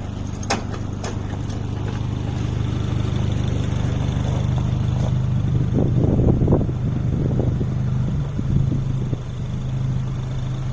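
Engine idling steadily with a low, even hum. Some louder irregular noise comes in about six seconds in.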